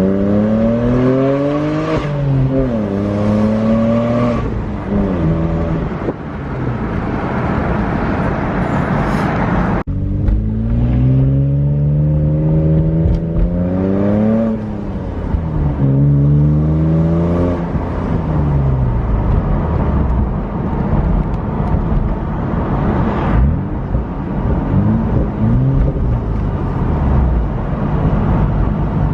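BMW 135i's twin-turbo 3.0-litre inline-six accelerating hard through the gears of its manual gearbox: the engine note climbs, drops at an upshift about two seconds in and climbs again, then a second hard pull starts about ten seconds in with another upshift, after which the engine settles to a lower, varying note.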